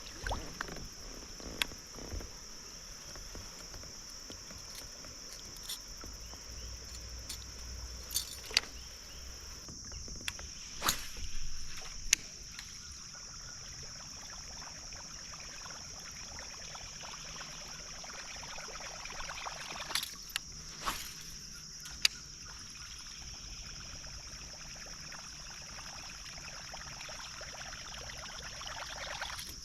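Steady, high-pitched drone of insects calling, with scattered sharp knocks and clicks from handling in a kayak.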